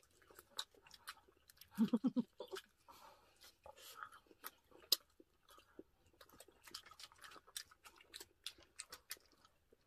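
Chewing and crunching of crispy roast pork skin (lechon), with many small sharp crackles and a brief voice murmur about two seconds in.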